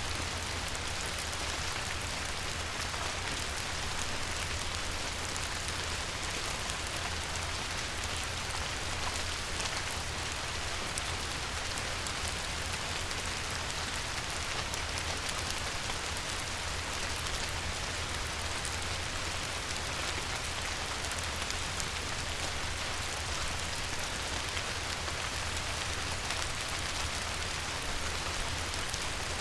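Light rain falling on a river: a steady, even hiss of many small drops pattering on the water, with a low rumble underneath.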